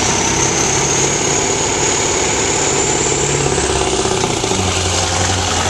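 Semi truck's diesel engine working hard under load as it pulls the weight-transfer sled down the track, with a high whine rising in pitch over it. The engine note drops lower about four and a half seconds in.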